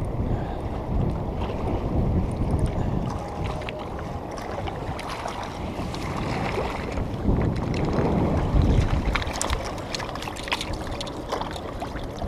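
Wind rumbling on the microphone over water noise, with scattered light clicks and knocks in the second half.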